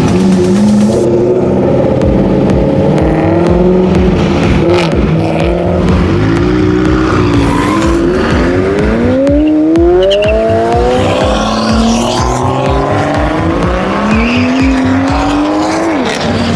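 Car engine accelerating hard, its pitch climbing steeply and dropping back at gear changes several times, with the last shift near the end.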